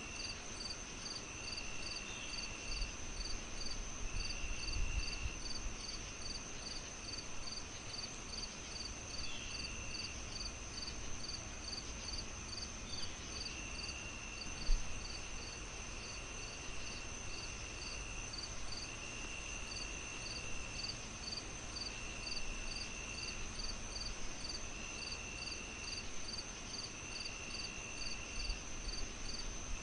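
Several crickets chirping together: a steady high trill, a pulsing chirp about twice a second, and a lower trill that comes in spells of a second or two. Under them a fireplace crackles softly, with one sharp pop about halfway through.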